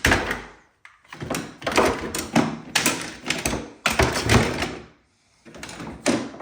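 Clamps being gathered and handled, knocking and clattering against each other in a run of sharp knocks and rattles, with a short pause about five seconds in.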